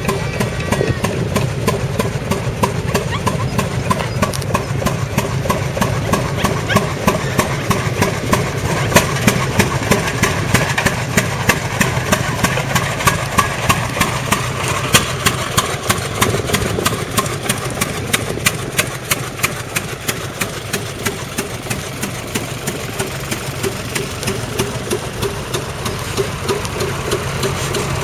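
Vintage tractor engines running as tractors drive past, one of them giving a sharp, evenly spaced exhaust beat about two or three times a second over the steady hum of the others.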